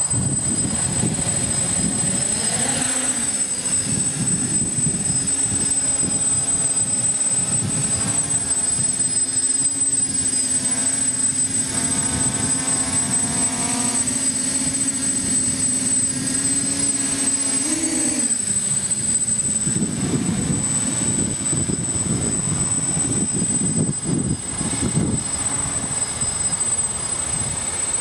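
DJI F550 hexacopter's stock DJI motors and Graupner 8x5 props humming in flight, with strong wind buffeting the microphone. The hum rises in pitch about three seconds in, holds steady, and drops away around eighteen seconds in, leaving mostly wind rumble.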